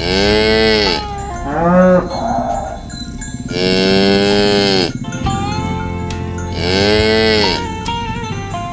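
Cattle mooing: three long moos a few seconds apart, each rising and then falling in pitch, with a shorter call between the first two.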